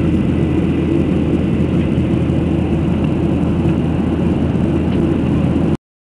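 Airplane engine noise, a steady drone that cuts off suddenly near the end.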